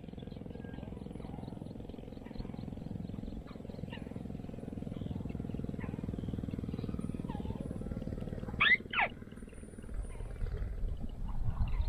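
Bird calls in open country: faint scattered chirps and a fast, even high ticking, then a loud arching call that rises and falls in pitch about nine seconds in. A steady low rumble runs underneath.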